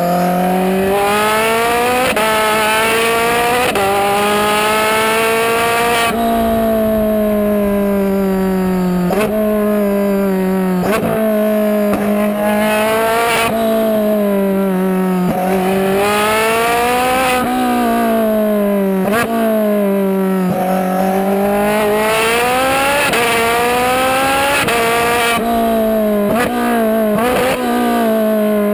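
Twin-turbocharged Ferrari 458 Spider's V8 being driven hard, its note climbing in pitch with abrupt drops at each gear change, then falling away and climbing again, over and over.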